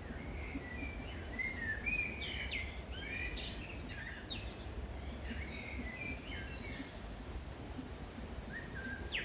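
Birds chirping and calling in many short notes that slide up and down, over a steady low background rumble.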